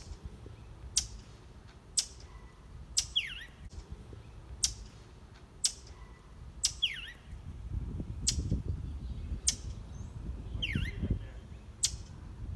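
Bird chirping: short sharp high chirps about once a second, with three falling whistled notes among them. A low rumble comes in about two-thirds of the way through.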